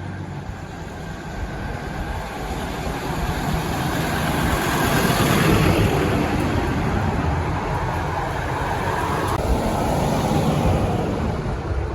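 Road traffic passing close by on a street: car engines and tyre noise build to a peak around the middle and fade near the end.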